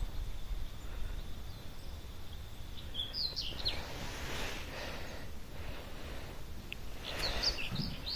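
Open-air farm ambience with a bird giving short high chirps in two brief clusters, about three seconds in and again near the end, over a low steady background rustle.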